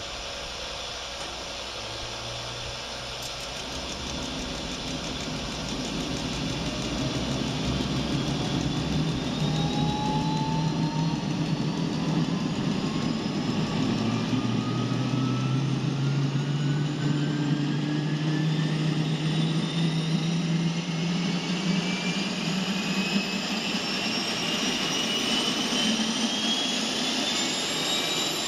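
Jet engine being spun up by a pneumatic air turbine starter fed from a start cart. Several whining tones climb steadily in pitch as the engine spools up, and the sound grows louder over the first ten seconds.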